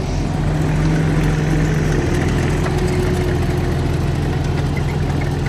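Compact excavator's diesel engine running steadily, a continuous low hum.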